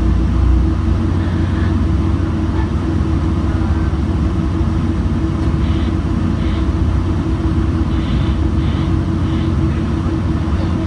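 Metrolink commuter train running: a steady low rumble with a constant hum underneath.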